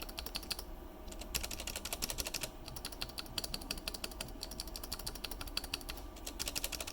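Stabilized mechanical keyboard key on a plate being pressed repeatedly, giving rapid runs of clicks and clacks from the switch and the stabilizer wire.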